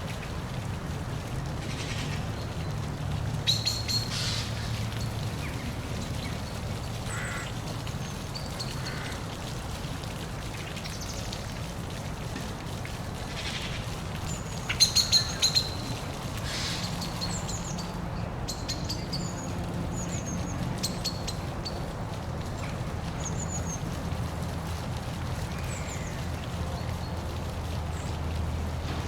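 Birds chirping over the steady low rumble of a park waterfall, with short, louder calls twice, about four and fifteen seconds in.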